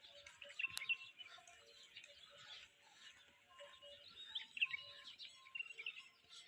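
Small birds chirping in short, scattered calls, fairly faint, with a single sharp click a little under a second in.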